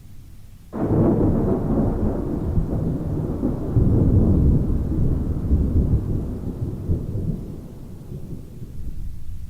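A thunderclap breaks suddenly about a second in, then rolls as a long rumble of thunder that slowly fades toward the end.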